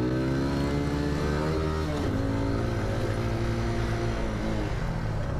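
Motorcycle engine under hard acceleration, heard from the bike being ridden. The pitch climbs, drops at a gear change about two seconds in, then climbs again and falls as the throttle comes off near the end.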